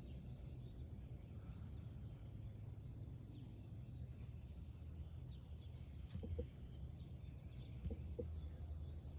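Faint ambience of small birds chirping in short arched notes, several in a row, over a low steady rumble, with a few soft knocks about six and eight seconds in.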